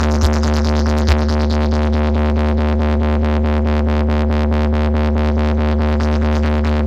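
Electronic dance music played loud through a sound system on a sound check: a heavy, steady bass drone under sustained synth tones, with a rapid, even pulse and a few low thumps near the start.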